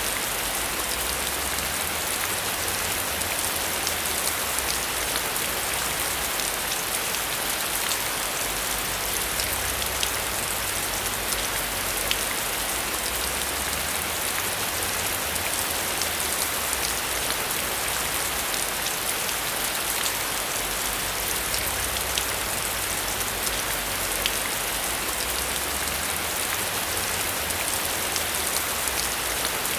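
Steady heavy rain: a constant dense hiss peppered with countless sharp drop ticks, over a faint low rumble.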